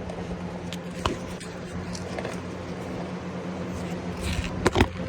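A steady low mechanical hum, with a click about a second in and a few sharp knocks near the end.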